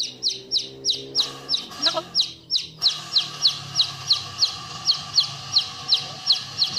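A bird calling in a rapid, even series of short, high chirps, each one sliding steeply down in pitch, about three or four a second. A lower, steadier sound sits under the chirps during the first two seconds.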